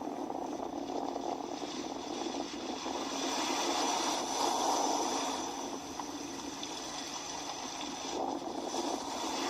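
Sea waves washing against the shore, a steady rushing wash that swells a little about four to five seconds in.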